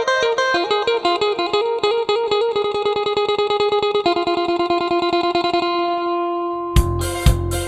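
Phin, the Isan lute, playing a fast melody of quickly repeated plucked notes. A drum kit with kick drum comes in near the end.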